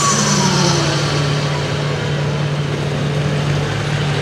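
Super Farm pulling tractor's diesel engine winding down after a pull, its pitch falling away in the first second, then running at a steady idle.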